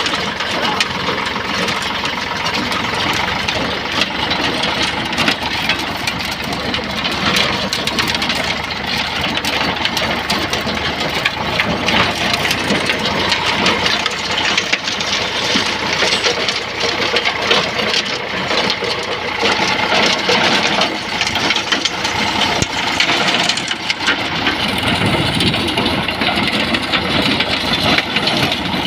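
Eicher 548 tractor's diesel engine running steadily, a dense rapid clatter of firing strokes.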